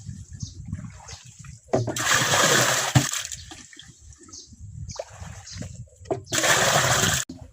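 Rushing, splashing water of irrigation flooding, surging loud three times for about a second each with sharp starts and stops.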